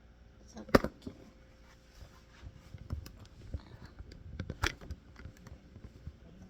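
Two sharp knocks about four seconds apart, with lighter scattered tapping and clatter between them.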